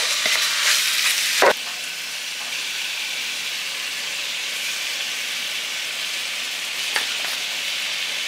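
Diced raw chicken sizzling in hot oil in a stainless steel pot. For the first second and a half it is louder and rougher, with the spatula scraping the chicken out of the bowl into the pot; then it settles into a steady sizzle, with a single light knock about seven seconds in.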